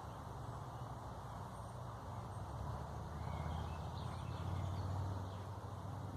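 A steady low rumble that swells a little about halfway through, with a few faint bird chirps over it.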